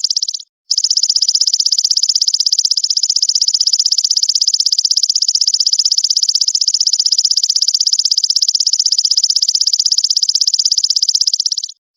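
Cicada ('brem') buzzing continuously: a loud, high, rapidly pulsing buzz, cut off briefly about half a second in and again near the end, as a looped recording restarts.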